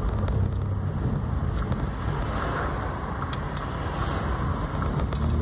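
Car driving: a steady low engine hum under even road noise, with a soft hiss swelling and fading twice in the upper range.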